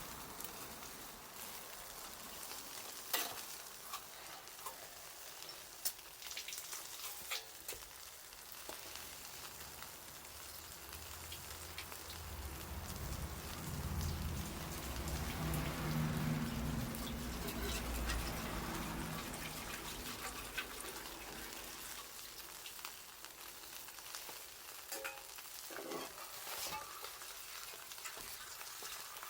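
Bonfire crackling with scattered sharp pops, with food sizzling as it grills over the fire. A low rumble swells up in the middle and fades again.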